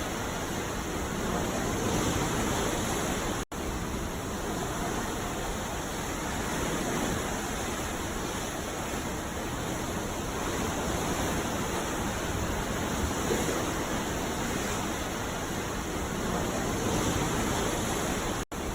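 Ocean surf washing onto a beach: a steady rush of breaking waves with slow, gentle swells. The sound cuts out for an instant twice, about three and a half seconds in and just before the end.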